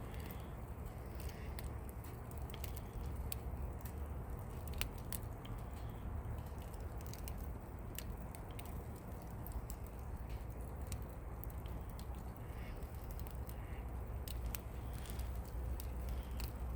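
Wood campfire burning, with scattered sharp crackles and pops from the burning firewood over a steady low rumble.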